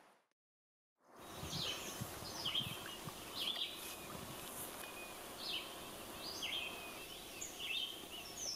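Wild birds calling in short, high chirps about once a second, over a steady outdoor hiss with faint low thuds. This follows a fade-out of music and about a second of silence near the start.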